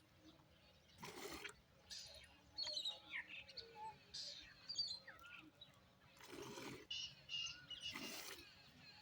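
Small birds chirping and calling on and off, with a few short noisy bursts about a second in and again around six and eight seconds.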